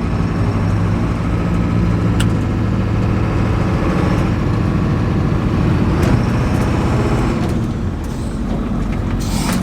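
Ford 7.3 Powerstroke V8 turbo diesel engine running steadily, with a single click about two seconds in.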